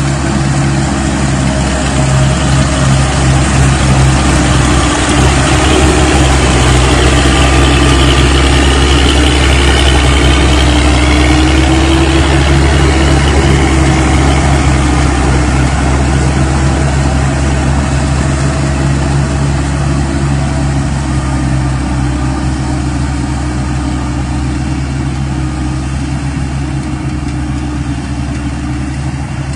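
Combine harvester engine running steadily with a deep hum. It swells a little a few seconds in and eases off slowly later.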